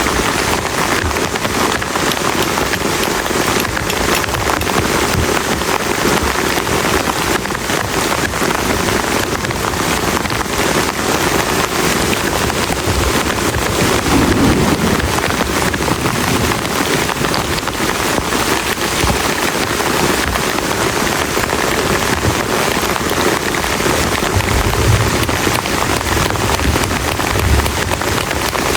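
Heavy rain pouring steadily, a dense, even hiss of many drops, with a few brief low rumbles in the last few seconds.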